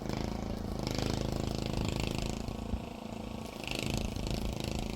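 An engine running steadily, with two stretches of higher hiss over it: one about a second in, lasting over a second, and a shorter one after about three and a half seconds.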